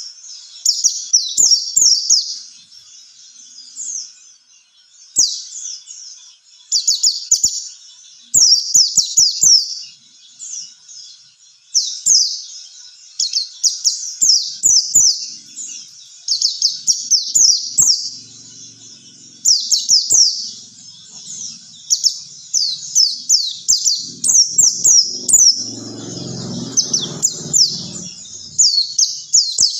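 White-eye (pleci) song: phrases of rapid, high, downward-sliding chirps, a second or two each, repeated with short gaps. A low rumble sits under the song near the end, alongside a few faint clicks.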